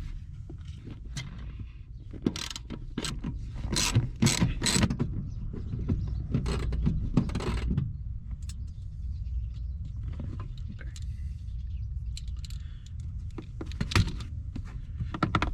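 Hand-worked mechanical clicks, clanks and rattles from working a car seat loose, denser in the first half, over a steady low hum.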